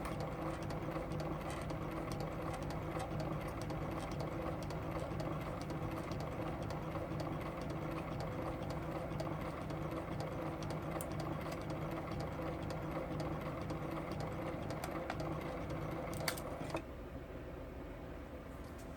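8mm film projector running, a steady mechanical whirr with a fast, even clatter. Near the end there is a click, and the projector noise cuts down to a fainter hum.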